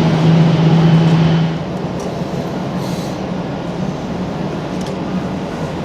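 Steady rumble of an Airbus A350-900's jet engines at low taxi power. A loud low hum drops away about a second and a half in, and the rumble carries on a little quieter.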